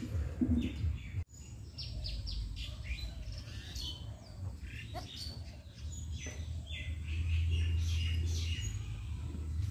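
Small birds chirping and twittering in many short, quick calls, over a low steady rumble that grows louder about seven seconds in.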